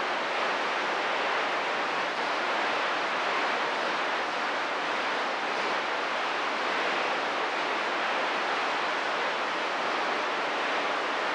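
Steady hiss of radio static from a CB receiver between transmissions, with no voice coming through.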